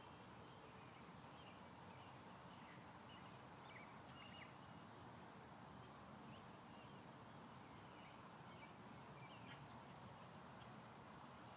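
Faint bird chirps, short and scattered, over a steady low hiss.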